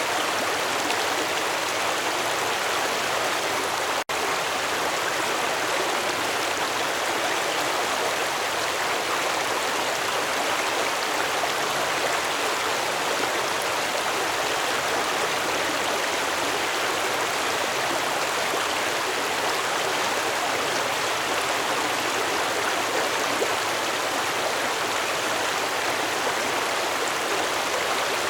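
Stream water flowing, a steady even rush and babble, broken once by a split-second dropout about four seconds in.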